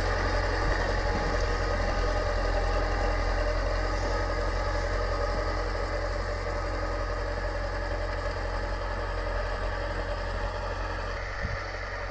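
T-40 tractor's diesel engine running steadily, slowly getting fainter.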